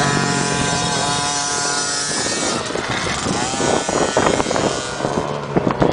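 Motocross dirt bike engines running at a steady pitch, then revving up and down with rising and falling pitch in the second half.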